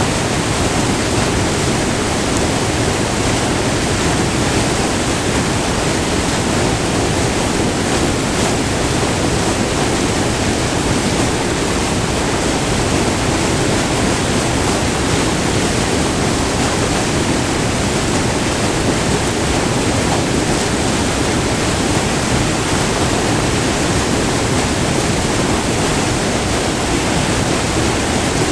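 Close-up rushing white water of a short multi-tiered river waterfall, a steady, dense roar of falling and churning water with no change in intensity.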